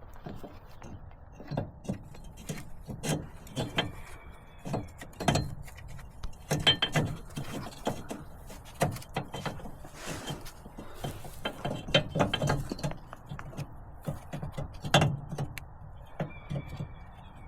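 Irregular metallic clicks, knocks and clanks of hand work on metal parts; the angle grinder is not running.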